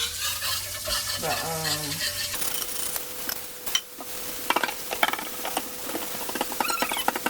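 Food sizzling in a frying pan while a utensil stirs it, with repeated scrapes and clicks against the pan, busiest in the second half.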